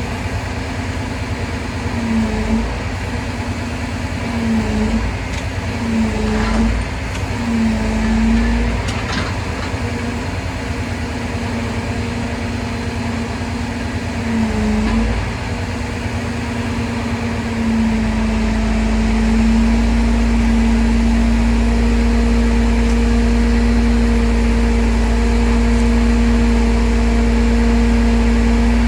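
Crane truck's engine running steadily under varying load, its pitch dipping briefly several times in the first half, then holding steady and a little louder with more low rumble for the last third.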